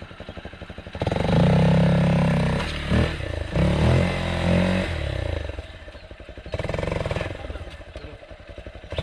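Hero Xpulse 200 single-cylinder dirt bike engine revved hard at full throttle about a second in, its pitch rising and falling as it pushes through sand. It drops back near the middle, then comes on again with a shorter burst of revs.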